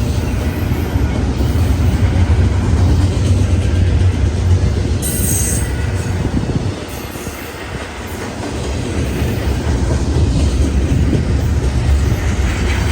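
Freight train rolling past, its cars rumbling steadily on the rails, with a brief high wheel squeal about five seconds in.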